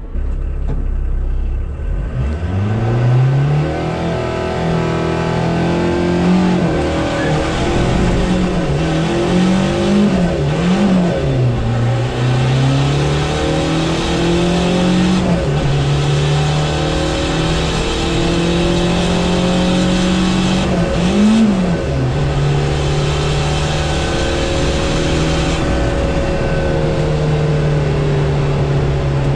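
Mk1 VW Rabbit's 1.6 turbodiesel engine at full throttle on a drag-strip pass, heard from inside the cabin. It launches about two seconds in, and its pitch climbs and drops several times through the run before holding steady near the end.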